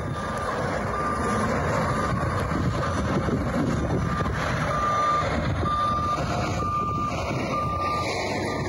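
Reversing alarm of a heavy snow-clearing vehicle beeping about once a second, each beep about half a second long, over the steady running of its diesel engine.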